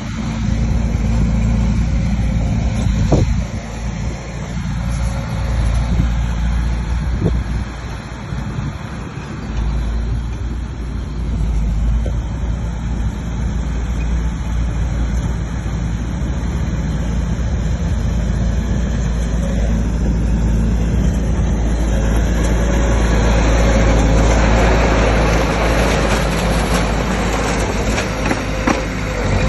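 Bulldozer's diesel engine running steadily with a deep low drone. About two-thirds of the way in the sound grows harsher and a little louder.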